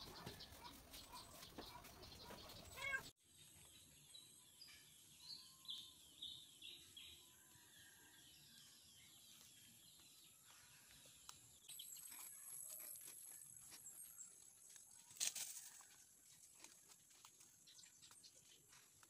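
Faint chickens clucking and chicks peeping, with scattered short high chirps and a brief click about fifteen seconds in.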